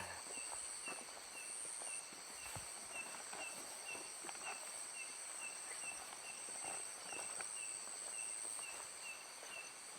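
Night insect chorus, crickets and similar insects trilling in steady high tones, with one insect giving a short chirp over and over at about two to three a second.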